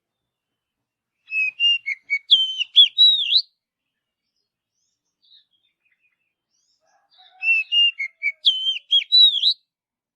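Oriental magpie-robin (kacer) singing: two nearly identical phrases of clear whistled notes that slide up and down, each lasting about two seconds, the first about a second in and the second near the end.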